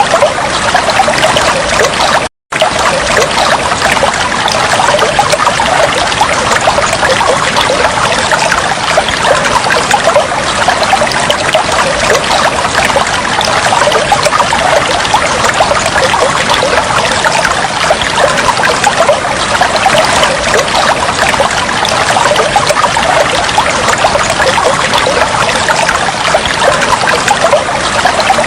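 Trickling, flowing water running steadily. It cuts out to silence for a split second about two and a half seconds in.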